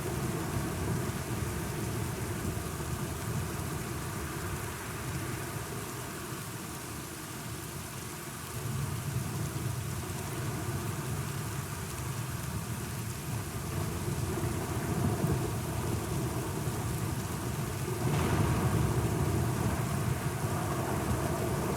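Steady rain with low thunder rumbling, swelling and fading several times; the downpour grows louder near the end.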